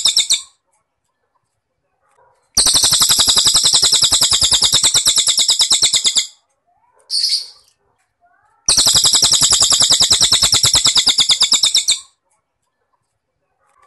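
Looped bird-training recording of cililin bird song joined with cricket chirping: two long, fast, evenly pulsed high trills of about three and a half seconds each, with a short high chirp between them.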